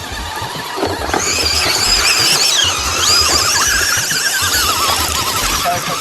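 Electric motor of a scale RC 4x4 truck whining, its pitch wavering up and down with the throttle as it drives through mud; the whine starts about a second in.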